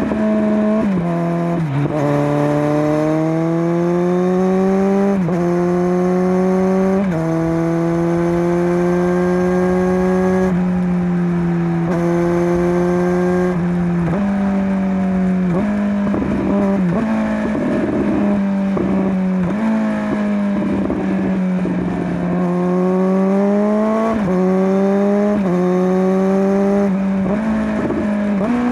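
Kawasaki Z900 inline-four through a LeoVince LV10 slip-on exhaust under way, pulling up through the gears: the note climbs, drops at each gear change, then climbs again. About halfway through it turns choppier, with the throttle going on and off, before steady pulls resume near the end.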